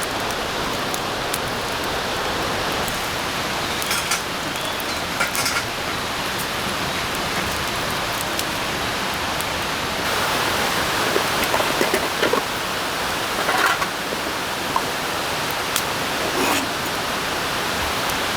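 Steady rain falling in a forest, an even hiss, with a few brief taps and knocks scattered through it, more of them in the second half.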